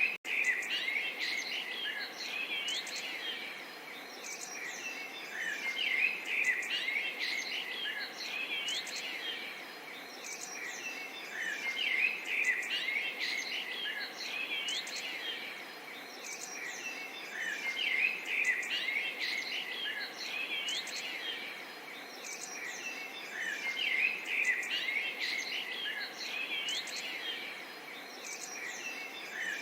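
Small songbirds chirping and trilling, in busy bursts a few seconds apart, over a soft, steady babble of running water.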